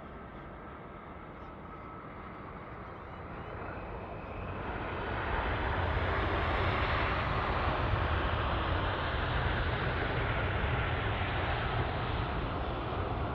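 Jet airliner engines passing by: a broad rushing noise that swells over a few seconds, peaks about halfway through, then slowly fades.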